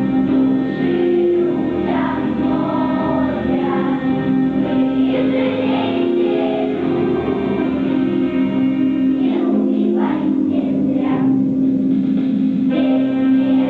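A children's choir of primary-school pupils singing together over musical accompaniment, with a steady held low note beneath the melody.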